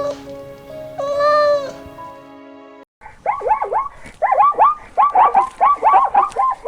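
A cat meowing: one long, drawn-out meow about a second in. After an abrupt break, a fast run of short chirping calls, several a second, takes over.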